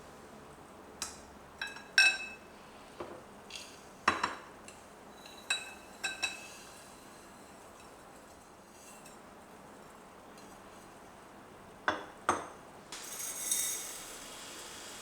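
Dishes and cutlery clinking and knocking: a run of light, ringing clinks in the first six seconds, a pause, then two more clinks followed by a brief hiss near the end.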